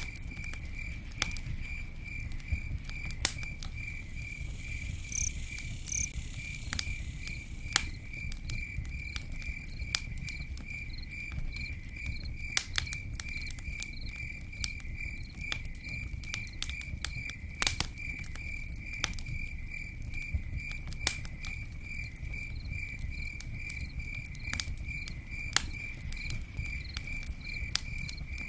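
Campfire crackling, with scattered sharp pops over a low rumble, while a cricket chirps steadily in an even, unbroken rhythm.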